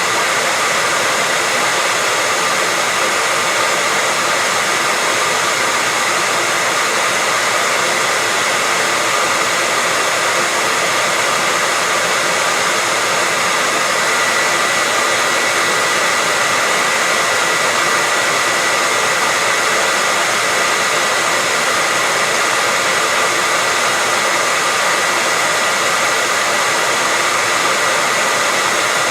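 Hair dryer running steadily: an even, unbroken rushing hiss with a faint high steady whine, used as white noise for soothing babies to sleep.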